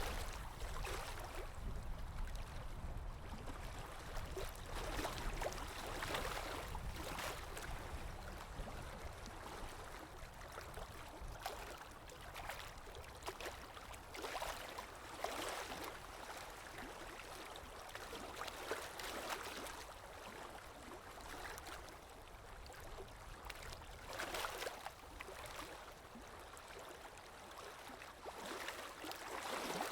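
Water lapping in irregular small splashes and swells, over a steady low rumble of wind.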